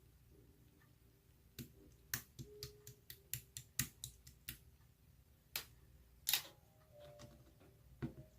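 A string of sharp small clicks and taps, irregularly spaced, about fifteen in all, with the loudest about six seconds in.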